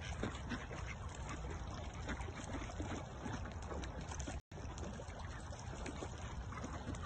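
Ducks feeding on bread in the water: many quick pecks and small splashes.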